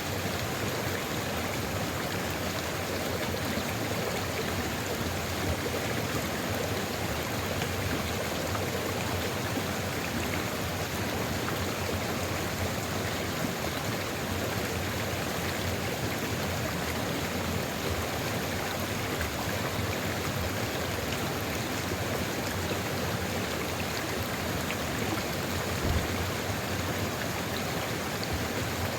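Sulfur river water flowing steadily in a continuous even rush, with one brief low bump near the end.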